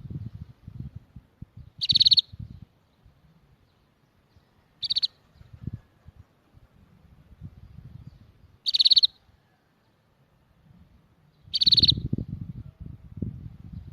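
A small songbird gives four short, rapid trilled chirps, each under half a second and about three seconds apart, over an uneven low rumbling in the background.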